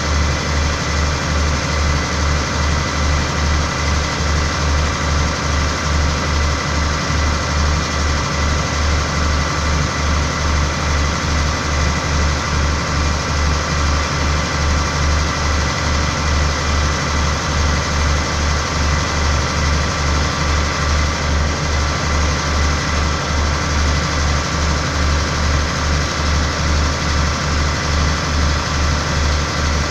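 A train's diesel engine idling steadily: a low hum that throbs evenly a couple of times a second, with a steady higher whine over it.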